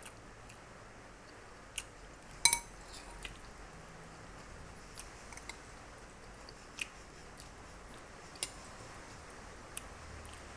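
Quiet eating sounds: scattered small clicks of a utensil against a food container, with one louder, briefly ringing clink about two and a half seconds in.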